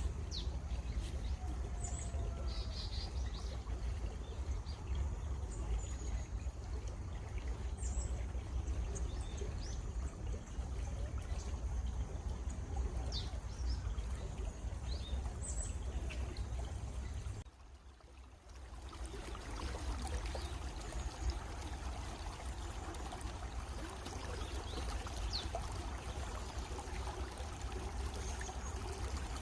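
Running stream water, a steady rushing trickle, with small birds giving short high chirps now and then. The sound dips briefly a little past halfway, then the water comes back.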